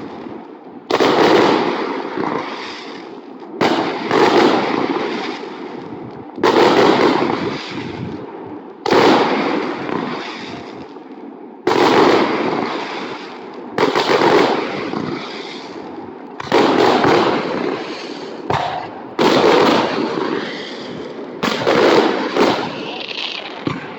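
Aerial fireworks shells bursting at a public display: a sudden loud boom about every two to three seconds, each trailing off in a rumble and crackle before the next.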